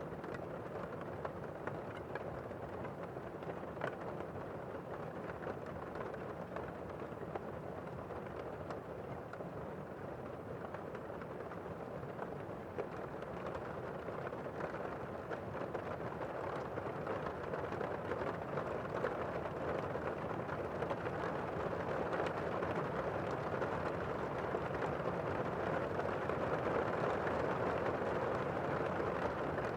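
Steady rain falling, a dense hiss with scattered drop ticks, growing a little louder in the second half.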